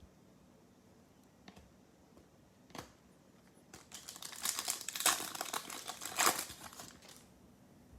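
A plastic trading-card pack wrapper crinkling and rustling as it is handled, for about three seconds in the second half, after two faint clicks.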